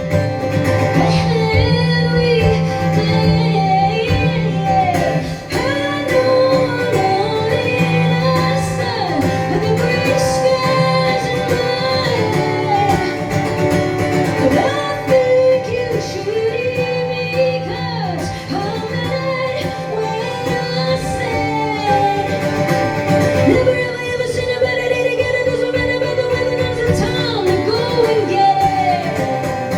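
Live band music: a woman singing a wordless or unclear melody over guitar and bass, playing steadily.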